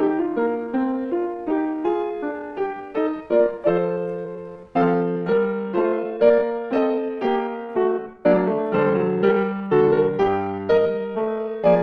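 Background music: solo piano playing a steady stream of notes, each struck and fading.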